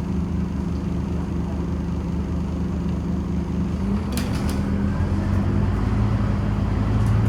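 Scania Omnicity city bus engine heard from inside the cabin, running steadily, then rising in pitch and getting a little louder about four seconds in as it picks up revs. There are a few brief clicks around the same moment.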